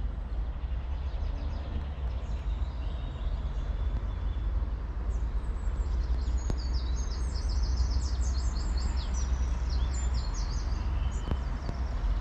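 Small birds singing, with quick repeated high chirps and trills that come thickest in the middle, over a steady low rumble.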